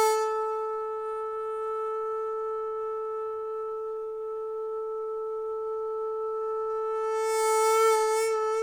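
Daegeum, the Korean large bamboo transverse flute, holding a single long note: it sets in sharply, stays steady, then swells louder with a slight waver near the end.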